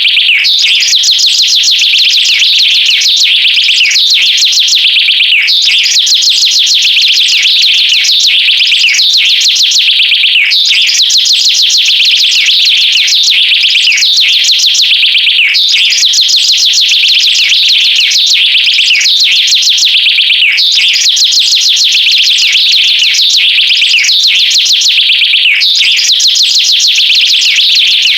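Loud, rapid high-pitched bird chirping, a phrase that repeats about every five seconds: each begins with a downward-sliding whistle, followed by a dense run of quick chirps.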